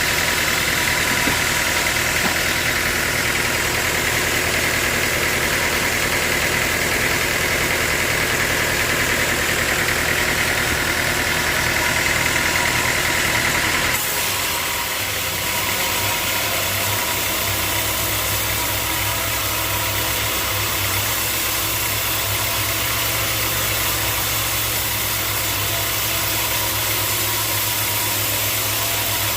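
Sawmill machinery running steadily, a continuous mechanical noise with a steady high whine. About halfway through it changes abruptly to a lower hum.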